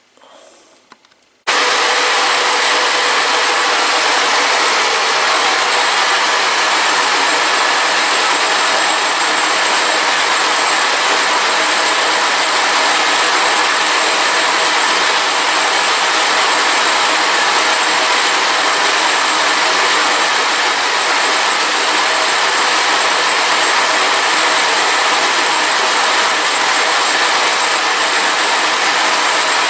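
A workshop machine starts suddenly about a second and a half in and runs with a loud, steady hissing noise.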